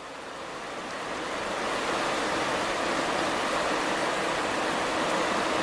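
The Maruia River running high after heavy rain, a steady rush of fast water that grows louder over the first two seconds and then holds.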